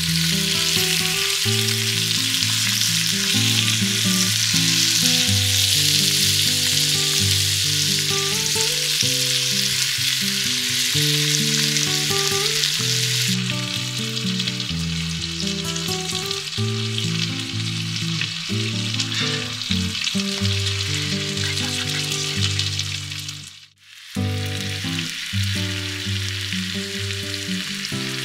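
Chicken and cheese sizzling in hot sandwich pans on a grill over a charcoal fire. The sizzle softens about halfway and cuts out for a moment near the end. Background music of low held notes plays throughout.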